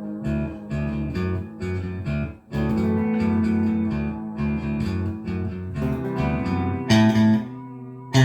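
Guitar music: plucked guitar notes and chords over a steady bass line, with two louder strums near the end.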